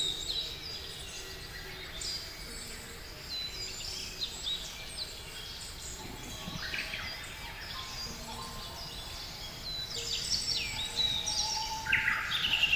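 Many small birds chirping and calling at once: short, high notes and quick downward sweeping calls, which grow busier and louder near the end.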